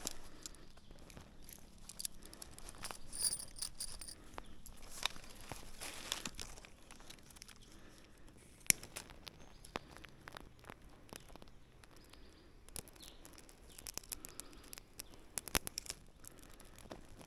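Rustling and crackling, as of leaves and twigs being handled or stepped on, with scattered sharp clicks, the loudest a single click nearly nine seconds in.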